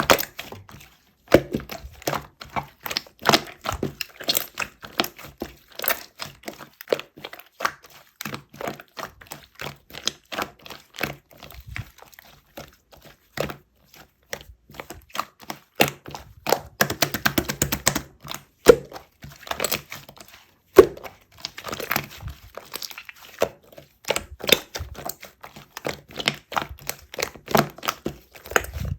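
Close handling of avocado ice cream and its packaging: a busy string of crisp cracks, crinkles and small knocks, with a few louder knocks.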